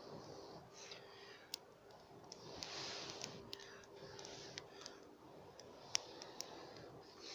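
Wood campfire crackling, with sharp irregular pops, the loudest about six seconds in.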